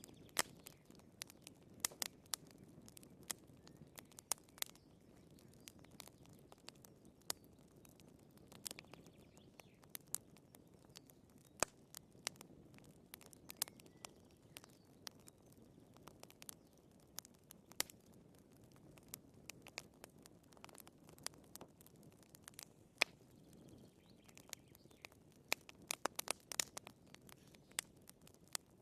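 Burning firewood in a fireplace crackling, with frequent sharp pops and snaps at irregular moments over a soft steady hiss, a quick run of pops near the end.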